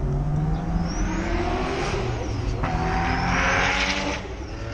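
A car accelerating hard, its engine revving up through two gears with a high whine rising alongside the revs. There is a short shift break about two and a half seconds in, and the sound eases off near the end.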